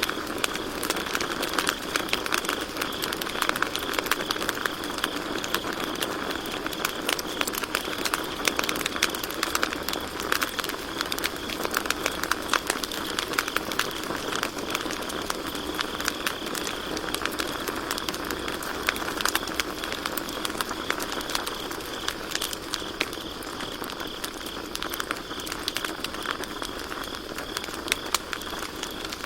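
Campfire burning steadily with dense, irregular wood crackles and pops over a soft flame hiss, with a steady high chorus of crickets chirping behind it.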